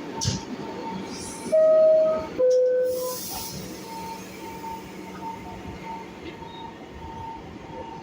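New York City subway train standing at the platform with a steady hum, sounding its two-tone descending door-closing chime. A faint beep then repeats about twice a second.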